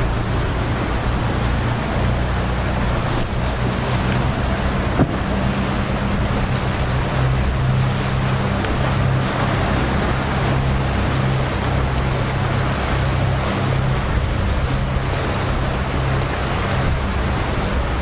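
Boat engines running with a steady low drone, over the wash of waves and wind.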